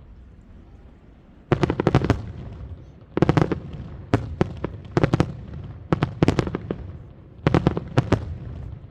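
Fireworks shells bursting in quick volleys: about six clusters of sharp bangs, each several cracks in rapid succession, starting about a second and a half in.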